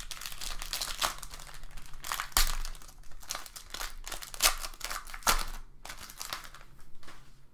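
Foil wrapper of a trading-card pack being torn open and crumpled by hand, a run of crinkling and tearing with a few sharper rips.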